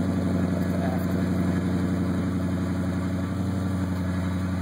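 Hemi engine idling steadily through Vortex 40 series performance mufflers, with a deep exhaust note.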